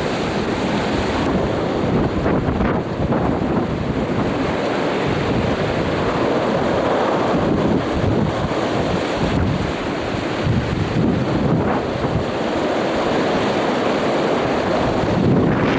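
Strong wind blowing across the camcorder's microphone: a loud, steady rushing noise.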